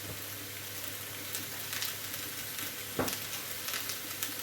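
Food frying in sunflower oil in a hot pan, a steady sizzle with small crackles and a single sharp knock about three seconds in.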